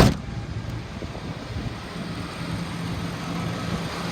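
The 2002 Dodge Ram 3500's 5.9-litre gasoline V8 idling steadily, smooth and even, after about half an hour of running. A single sharp knock sounds right at the start.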